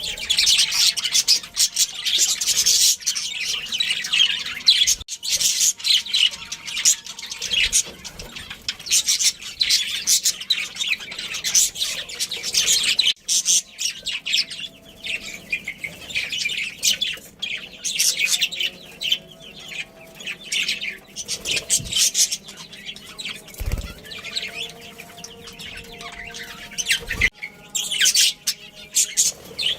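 Budgerigars chirping and chattering, a dense stream of quick high chirps that overlap without pause.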